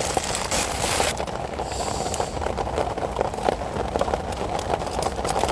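Water pouring and splashing as scallions are rinsed by hand, loudest in about the first second, over steady heavy rain falling on the shelter.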